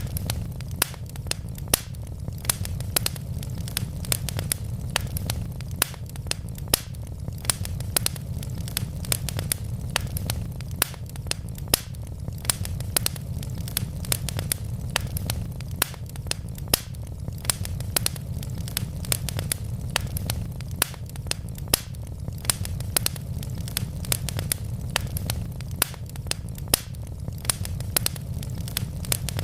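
Wood fire crackling: burning logs giving off many sharp pops and snaps several times a second over a steady low rumble of the flames.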